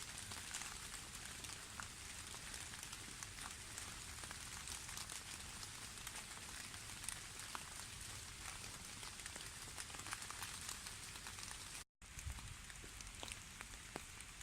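Light drizzle pattering on birch leaves and the forest floor: a steady soft hiss dotted with many small drop ticks. The sound cuts out for a moment about twelve seconds in.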